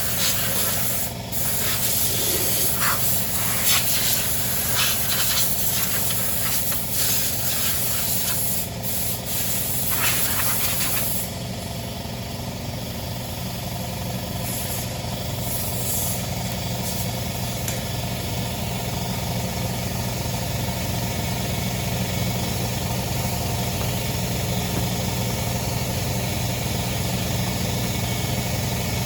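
A small engine running steadily, with a hissing, rushing noise over it for about the first eleven seconds that then stops suddenly, leaving the engine running on its own.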